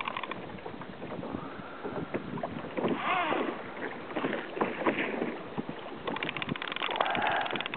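Water splashing and sloshing around a fishing kayak as a hooked mahi-mahi is played alongside, with wind on the microphone and runs of rapid clicking near the end.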